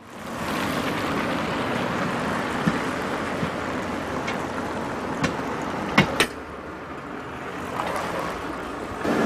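Steady road and engine noise from a car, with two sharp knocks close together about six seconds in, after which the noise drops.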